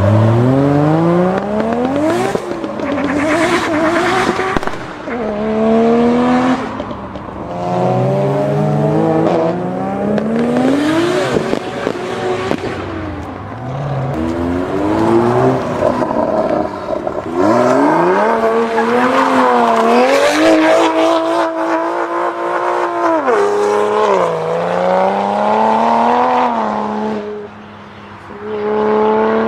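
Toyota Supra engines revving hard under acceleration, the pitch climbing and dropping back at each gear change, over several runs, with a stretch of high revs held for a few seconds in the second half. Tyre squeal comes in at times.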